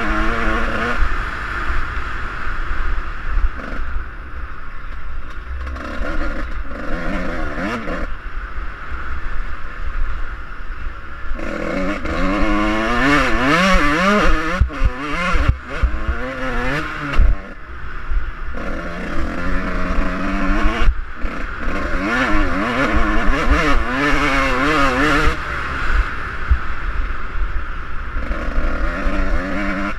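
Suzuki RM125 dirt bike's single-cylinder two-stroke engine being ridden hard, revving up and down over and over as it goes through the gears. It drops back to a lower, quieter run for a few seconds at a time, most clearly between about 4 and 11 seconds in.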